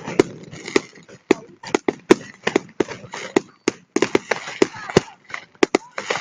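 Fireworks display: a rapid, irregular run of sharp bangs, two or three a second, with crackling between them.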